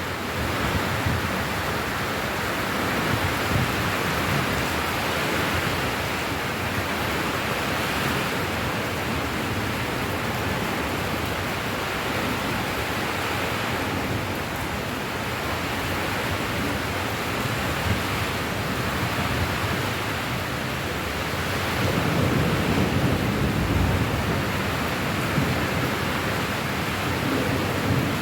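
Steady rain falling, an even hiss, with a low rumble swelling for a couple of seconds about two-thirds of the way in.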